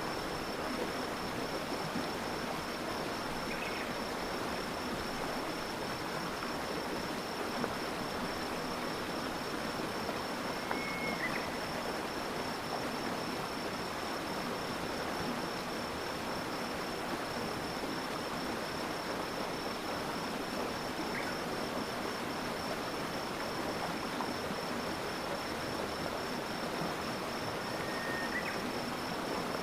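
Stream water flowing steadily over stones, with a continuous high-pitched insect trill and a few brief, faint chirps.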